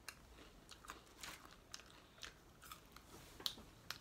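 Faint chewing close to the microphone: a string of irregular short clicks and small crunches as a person eats sauced chicken.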